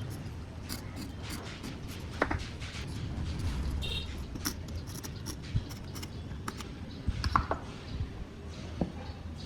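Light scattered taps and clicks of wood and hand tools being handled, with a few sharper knocks about two seconds in, around seven seconds in and near the end, over a low steady rumble.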